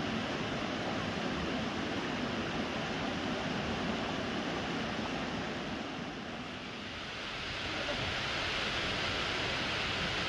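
Waterfall water rushing in a steady roar of falling water. It eases slightly about two-thirds of the way in, then comes back fuller and more hissy.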